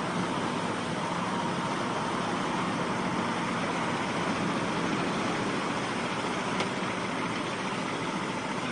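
A heavy vehicle's engine running steadily under a continuous noisy rush, with no clear change in speed.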